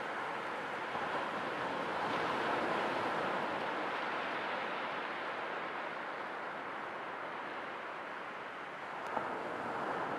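Sea waves washing on a shore: a steady rushing surf that swells a little and eases off again, with a brief click about nine seconds in.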